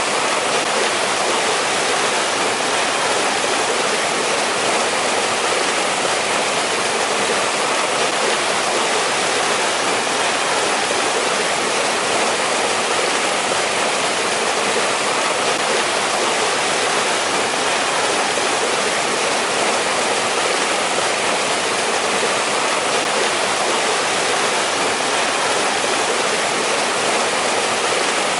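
Mountain valley stream rushing steadily over rocks, a constant even rush of water with no breaks.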